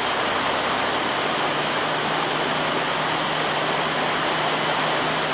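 Steady rushing of a swollen mountain river in flood, running high after heavy rain.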